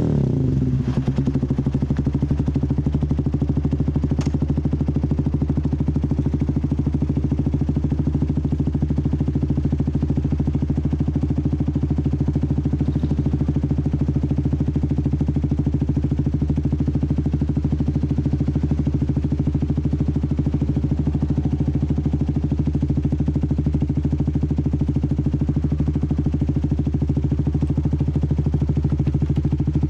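Benelli Motobi 200 EVO's single-cylinder engine idling steadily through an aftermarket exhaust, with an even, fast pulse and no revving.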